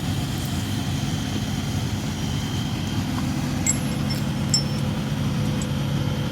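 Excavator diesel engine idling steadily, with a few light metallic clinks of ringing steel a little past the middle.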